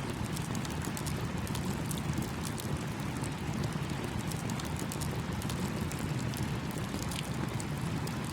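Campfire crackling with many small, sharp pops over the steady rush of a small stream.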